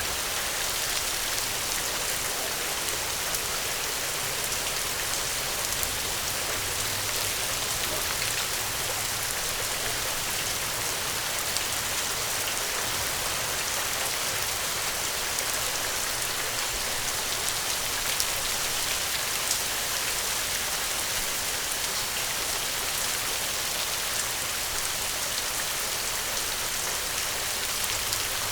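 Steady heavy rain falling, an even hiss with scattered small ticks of drops and no change in level.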